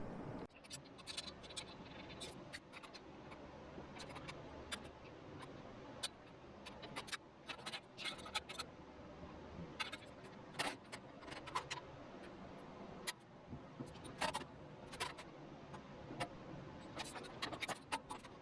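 Light clicks, taps and scrapes at irregular intervals, sometimes in quick clusters: the sheet-metal parts of a hand-made motorcycle muffler being handled and fitted.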